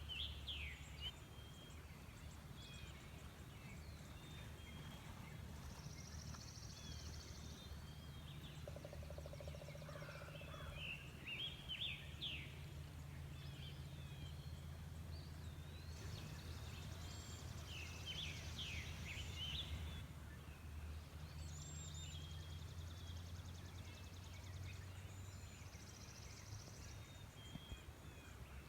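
Several wild birds calling and singing: short sharp chirps and rapid high trills repeating throughout, over a steady low rumble.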